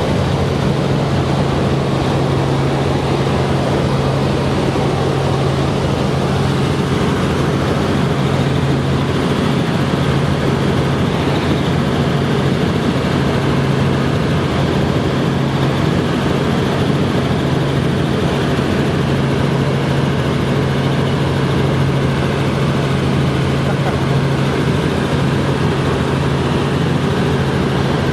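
Helicopter running steadily: a constant loud drone of engine and rotors with a steady low hum that does not rise or fall.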